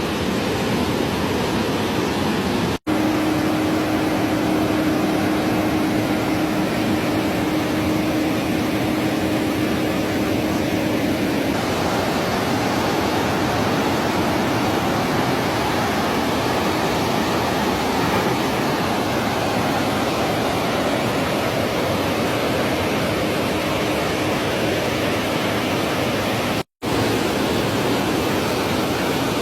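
Steady, loud rush of water pouring through an open dam spillway. A faint steady hum sits under it for several seconds, and the sound cuts out for an instant twice.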